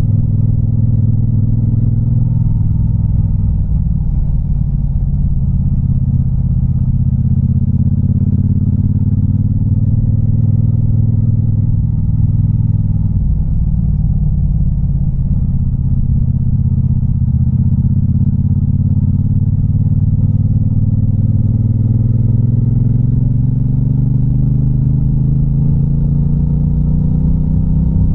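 Triumph Bobber's 1200 cc parallel-twin engine running under way with its raw exhaust note. The engine pitch drops and climbs several times as the bike slows and accelerates, climbing steadily near the end.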